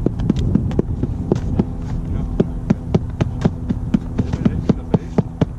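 Padded foam-fighting weapons striking shields and each other in a melee: a rapid, irregular run of sharp thwacks, several a second. A steady low hum runs beneath.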